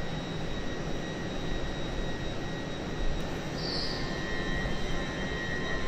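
Hull Trains Class 802 Paragon unit standing at the platform, giving a steady mechanical hum and rumble with thin high whines over it. There is a short hiss about three and a half seconds in.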